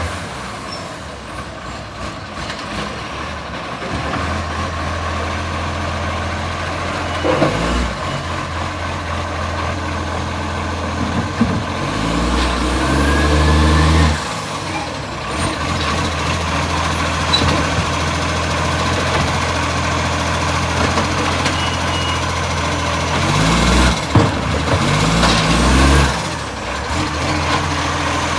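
Garbage truck's diesel engine running with a leaking exhaust, its revs rising and dropping back several times. There are a few short hisses among the engine sound.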